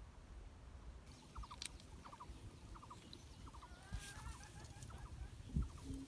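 A bird calling in short groups of two or three quick chirps, repeated about twice a second, with a warbling phrase midway. There is a dull thump near the end.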